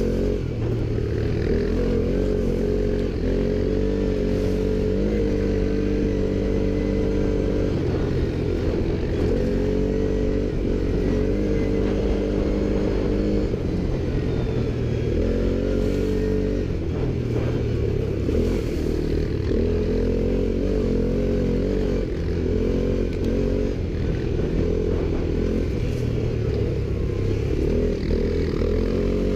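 ATV engine running under way, its revs rising and falling every few seconds as the throttle opens and eases.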